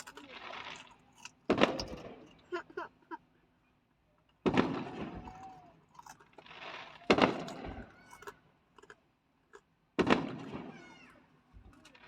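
Fireworks shells bursting overhead, four loud booms about three seconds apart, each followed by a long echoing rumble as it fades.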